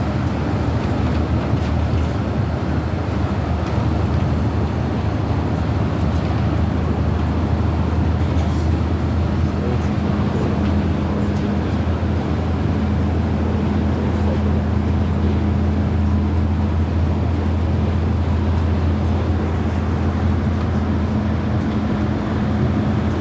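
Steady running rumble of a vehicle in motion, with a constant low hum and no sudden sounds.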